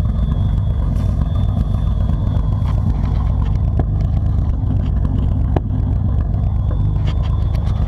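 A 1991 pickup truck's engine idling steadily through a muffler-delete exhaust, straight-piped back from the catalytic converters with no muffler. It is a continuous low rumble.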